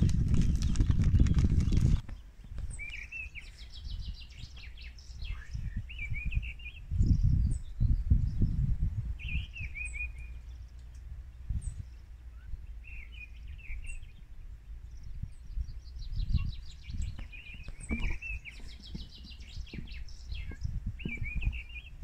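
Small songbirds calling outdoors in short, repeated chirping phrases and trills, over low rumbling gusts. A louder rushing noise fills the first two seconds and stops abruptly.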